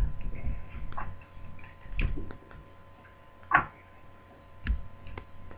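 Sharp plastic clicks and creaks, about six spread unevenly, the loudest about three and a half seconds in, as a Toshiba Satellite T130 laptop's damaged plastic palmrest is prised off its base.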